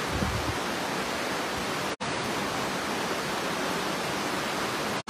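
Steady rushing of a rain-swollen river in flood, broken off for an instant twice.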